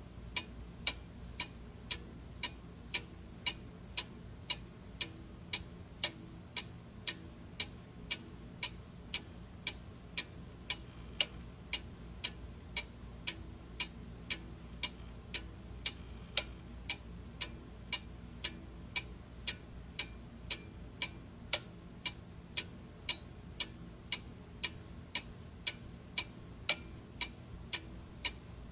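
Clock ticking steadily, about two sharp ticks a second, over a faint low background hum.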